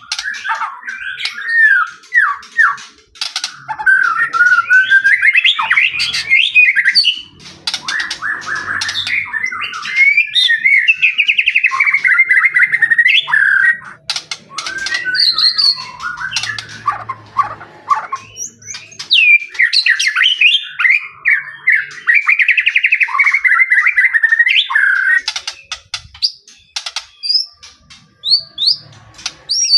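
White-rumped shama (murai batu) in full song: long, varied phrases of rich whistles and fast trills, broken by brief pauses, turning to shorter scattered notes near the end.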